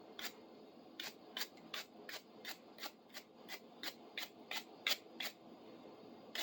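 Toothbrush scrubbing the knurled adjusting nut of a rusty pipe wrench: quick back-and-forth bristle strokes about three a second, with a short pause about a second in.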